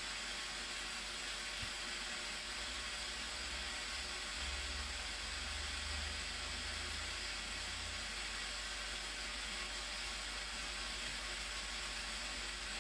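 Steady, even rush of a large waterfall, the Blue Nile Falls, with a low rumble swelling briefly in the middle.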